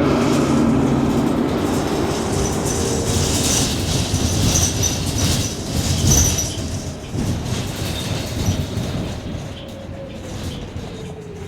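Inside a New Flyer XT40 electric trolleybus under way: rumbling road noise with rattles and sharp clicks and clunks. Near the end the Vossloh Kiepe traction motor's whine falls in pitch as the bus slows.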